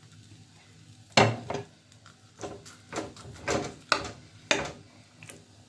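Dishes and kitchen utensils clattering: a string of sharp knocks and clinks, the loudest about a second in.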